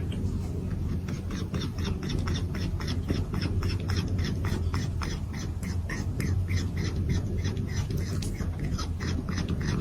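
An animal giving short calls over and over, about three or four a second, over a steady low rumble.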